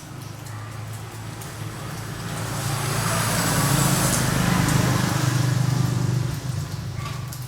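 A road vehicle passing by, its engine hum and road noise swelling over a few seconds and then fading away.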